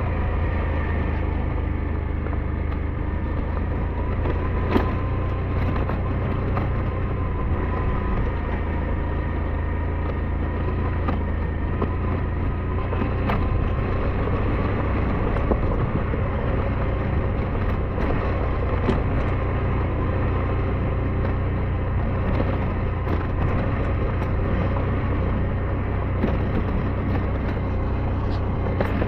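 SYM NH T 200 scooter's single-cylinder engine running steadily while riding, its pitch holding fairly even, with a few short knocks scattered through.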